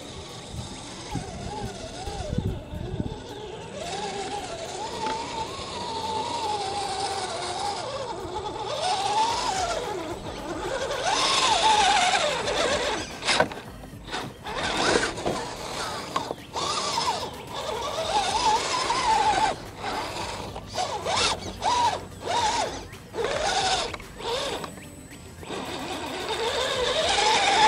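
Redcat Gen8 Scout II RC crawler's electric motor and metal gears whining, the pitch rising and falling with the throttle. Later it is blipped in short bursts with sudden stops between them.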